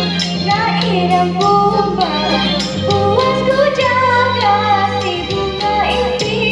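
A young female solo voice singing a melody, holding notes with vibrato, over instrumental accompaniment with sustained bass notes and a steady beat.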